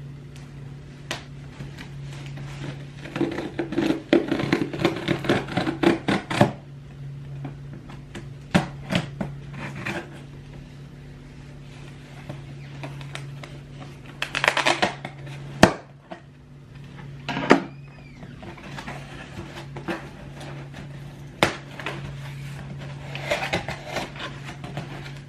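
A cardboard shipping box being opened by hand: bursts of scraping, tearing and rustling of cardboard and packing, with a few sharp knocks, over a steady low hum.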